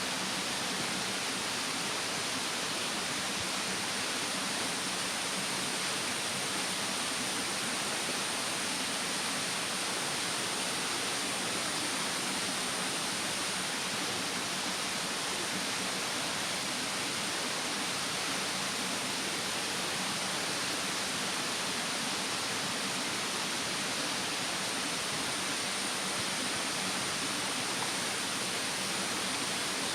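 Mountain stream rushing: a steady, even hiss of running water, with no separate crackles standing out.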